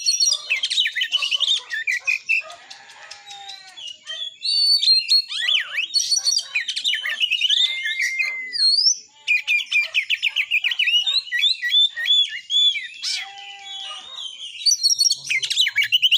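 Oriental magpie-robin in full, agitated fighting-mode song: a fast, varied stream of chirps, whistles and trills. It eases off briefly about two seconds in and again around nine seconds.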